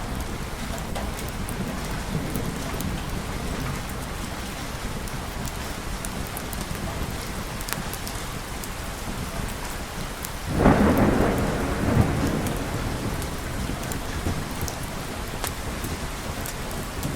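Steady rain with a sudden thunderclap about ten seconds in, a second crack a moment later, then the rumble fading back into the rain.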